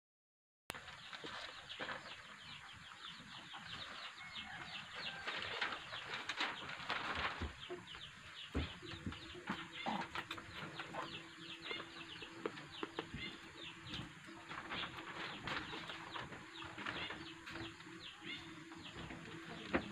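Many small birds chirping rapidly, starting under a second in, with a few short knocks. A faint steady hum joins about nine seconds in.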